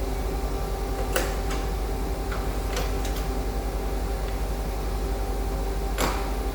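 Several sharp clicks over a steady low machine hum; the loudest click comes about a second in, another comes near the end.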